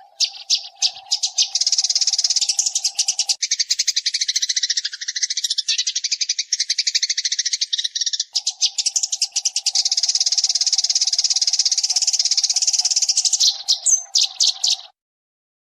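Eurasian tree sparrows chirping in a dense, rapid, unbroken chatter, as in a looped lure recording, over a steady low buzz through most of it; it cuts off abruptly near the end.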